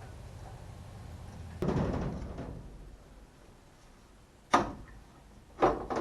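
Parts being handled while a fan and fan shroud are fitted to a race car: a short rattling clatter about one and a half seconds in, then two sharp knocks about a second apart near the end, with a few lighter clicks.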